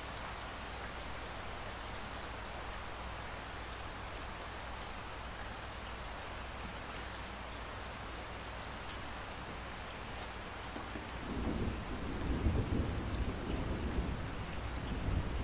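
Steady rain falling, and about eleven seconds in a low rumble of thunder builds and rolls on under the rain.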